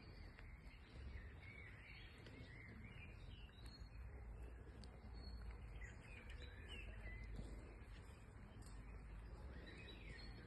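Faint birdsong: small birds giving short chirping phrases throughout, over a steady low rumble.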